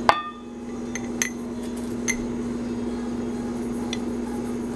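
Light clinks of a utensil against a kitchen bowl: one sharp clink at the start, then a few faint ones, over a steady low hum.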